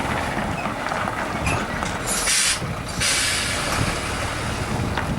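Heavy truck's engine running low, with two sharp hisses of air, about two and three seconds in.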